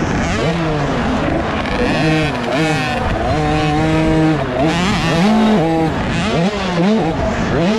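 A KTM 50 SX two-stroke motocross bike's engine revving up and down over and over as the throttle is opened and shut, heard from on board the bike. Other bikes' engines rise and fall close by.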